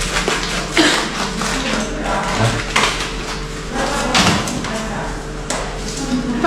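Small objects being handled, with several short knocks and clatters a second or so apart, over a steady low hum.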